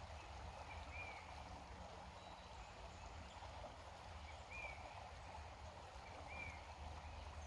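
Faint steady murmur of a creek, with a few short high bird chirps scattered through it.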